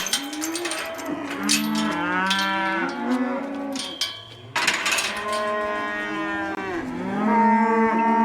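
Cattle mooing and bellowing, several cows calling over one another in long overlapping calls, with knocks and clatter among them.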